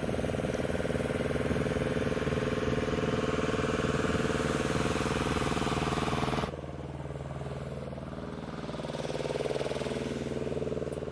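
An engine running steadily. About two-thirds of the way through it cuts off suddenly to a quieter engine sound, which swells for a moment near the end.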